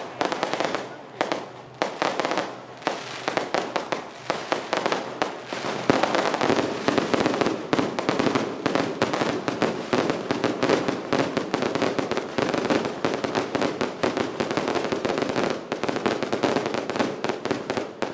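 Firecrackers going off in a rapid, continuous crackle of sharp bangs, growing denser about six seconds in.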